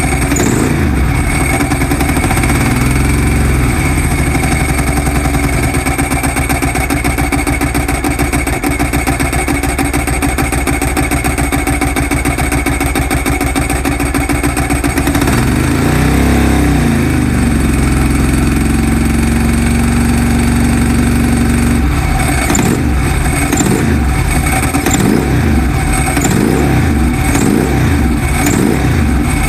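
Modified 900SS motorcycle engine running just after being brought back to life: it idles, is revved up and down about halfway through, holds a steady raised speed for a few seconds, then takes a run of quick throttle blips near the end.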